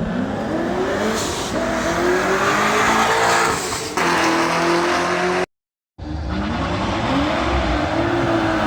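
Performance car engine revving hard under acceleration, its pitch climbing, with an abrupt shift in the sound about four seconds in. The sound cuts out briefly near six seconds, then an engine climbs in pitch again and holds high.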